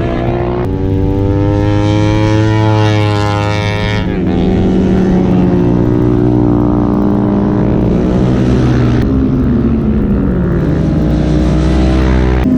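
Superbike engines running hard on a race track, their pitch rising and falling as the bikes accelerate and shift. The engine note changes abruptly about a second in, about four seconds in and about nine seconds in.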